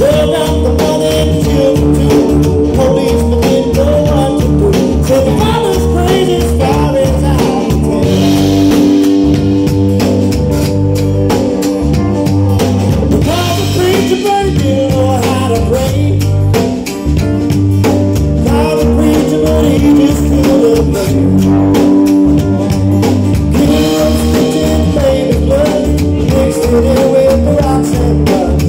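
Live soul-blues band playing an instrumental stretch, with drums keeping a steady beat under keyboards.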